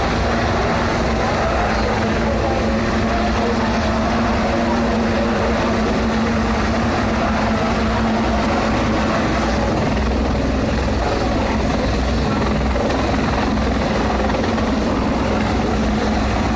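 Helicopter running steadily with a constant drone, as during a sea-rescue drill.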